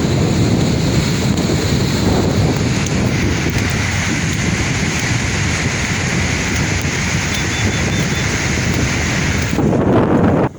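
Sea waves breaking and washing on the shore, with wind buffeting the microphone; a steady rushing surf that cuts out abruptly at the very end.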